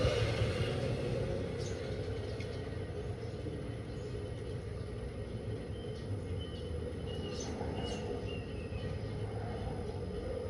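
DELTA 16 kg washing machine running with a steady low rumble and hum, easing off slightly over the first couple of seconds and then holding even.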